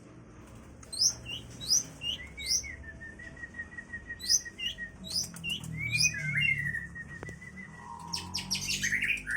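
Long-tailed shrike (cendet) singing a varied song full of mimicked phrases: sharp rising whistles repeated every second or so, a long rapid trill, warbled notes, and a fast chattering rattle near the end.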